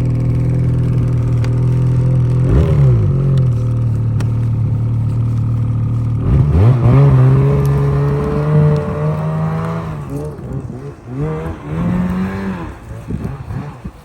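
Trail snowmobile engine running and being throttled to break the sled free of deep snow: its pitch dips and climbs twice, holds higher for a few seconds, then the sound fades with short uneven revs as the sled moves away.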